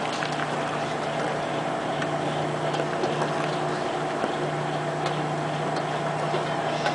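Microwave oven running with a steady hum and fan noise, with a few faint ticks.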